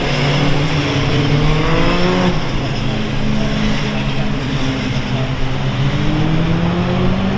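Several race car engines accelerating on track, their notes overlapping and climbing in pitch as they pull away, one run ending about two seconds in and another building near the end.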